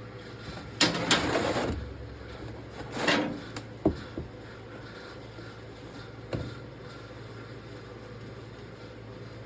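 Workshop handling noises over a steady low hum: a rough scraping rattle lasting about a second that starts about a second in, a shorter one near three seconds, and a few sharp knocks.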